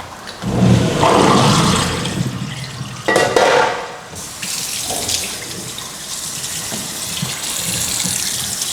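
Water running from a tap into a sink, splashing loudly for the first couple of seconds, with a brief louder gush about three seconds in, then flowing steadily.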